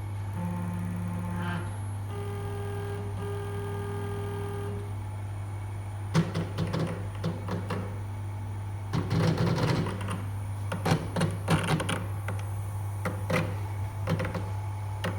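CNC stepper motor rig with its drive box powered on: a steady low electrical hum, which the owner cannot explain. Short steady motor tones sound in the first few seconds, then come uneven bursts of clicking and rattling.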